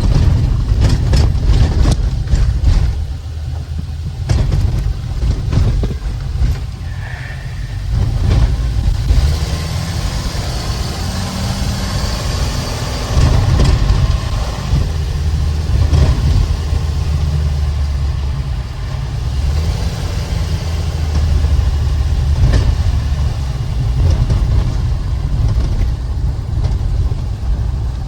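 Ford E-450 ambulance's 6.8L V10 running under way on a road test, with a steady low engine and road rumble. Several sharp knocks or rattles come in the first several seconds.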